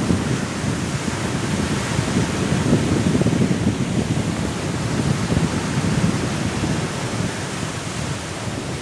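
Strong wind and sea surf: a continuous rushing noise, heaviest in the low range, swelling and easing slowly.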